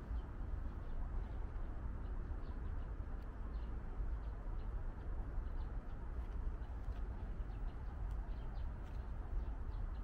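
Birds chirping faintly in short scattered calls over a steady low rumble.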